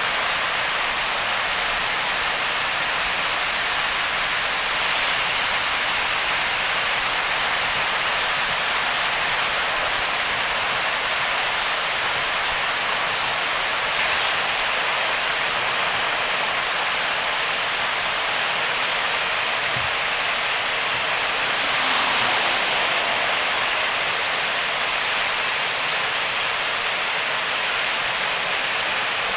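Heavy rain and wet-road spray hissing steadily around a car driving through a downpour, swelling briefly three times.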